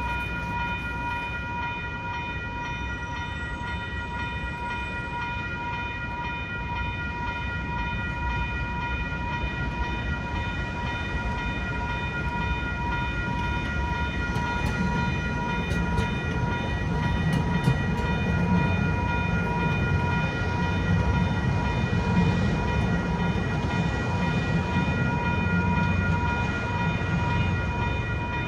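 Railroad crossing warning bell ringing steadily with a rapid pulse. From about halfway a light-rail tram's low rumble builds under it, with a few sharp clicks near the middle.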